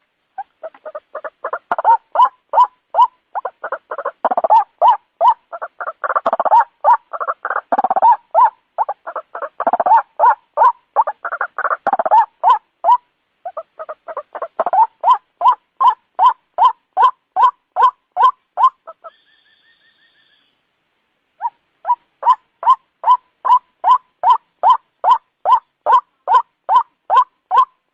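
White-breasted waterhen calling a rapid, repeated note about three times a second. For the first half several birds overlap in a dense chorus; after that a single, even series continues. The calls break off for about two seconds in the last third, then resume.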